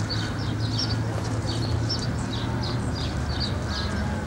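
Small birds chirping again and again, several short high chirps a second, over a steady low rumble.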